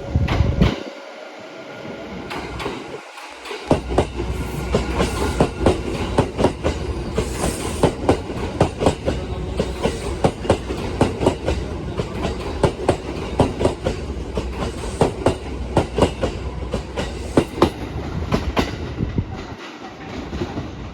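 Electric train running past, its wheels clacking over rail joints again and again under a steady rumble for most of the stretch. The clacking fades out near the end.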